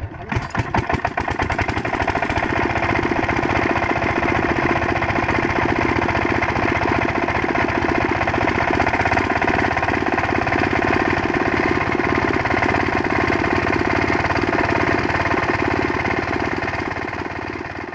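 Diesel engine of a borewell water-pump set picking up speed, its separate firing knocks quickening over the first couple of seconds, then running steadily with a rapid, even chugging. The sound fades out near the end.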